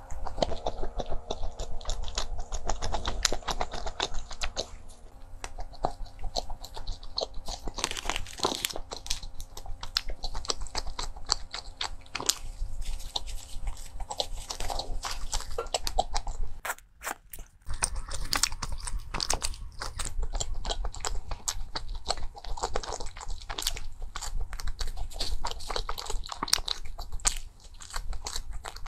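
Close-miked eating sounds: biting into and chewing pastries, with many small crunches and wet mouth clicks. There is a short break a little past halfway.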